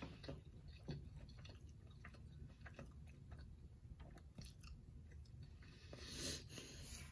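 Faint close-up chewing of a mouthful of omelette: soft, wet mouth clicks at irregular intervals, with a slightly louder rustle about six seconds in.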